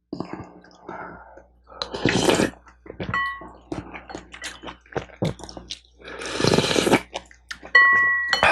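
Close-miked eating sounds: two loud slurps of spicy yukgaejang soup, about 2 s and 6.5 s in, among small clicks and chewing. A utensil clinks with a short ring against the bowl about 3 s in and again near the end.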